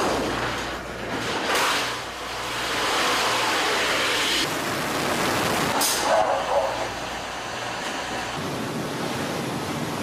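Jet aircraft noise during an arrested landing on an aircraft carrier deck: a loud, steady rushing sound, with two short sharp noises about 1.5 and 6 seconds in.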